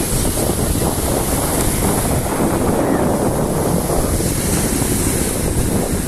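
Heavy sea surf: waves breaking one after another on the shore, with wind buffeting the microphone.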